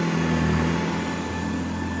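Hoover Model 70 Convertible upright vacuum cleaner running steadily: a motor hum with a thin high whine over a rushing noise.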